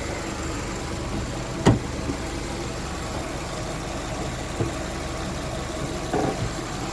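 A car engine idling steadily, with one sharp loud clack about two seconds in and a couple of softer knocks later.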